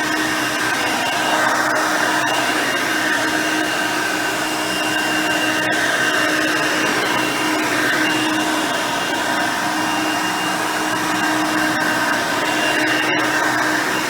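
Hoover Elite High Performance upright vacuum cleaner running steadily, its 5-amp motor and nine-blade fan giving a constant whine over the rush of air.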